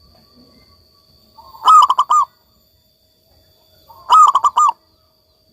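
Zebra dove (perkutut) cooing: two loud phrases about two and a half seconds apart, each a short lead-in followed by four quick, evenly spaced notes.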